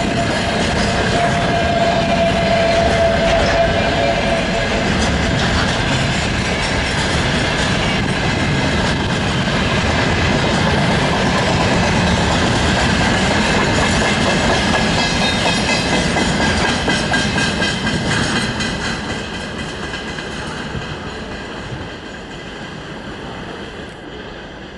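A freight train of container wagons rolls past, its wheels clattering over the rail joints. The sound grows quieter over the last several seconds.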